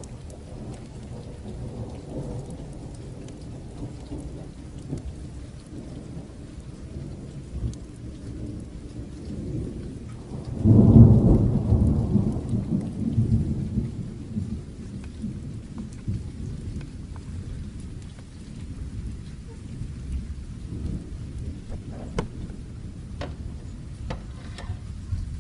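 Steady rain with a low rolling rumble of thunder. About halfway through, a loud thunderclap breaks and rumbles away over several seconds. Near the end, a few sharp crackles come from the fire.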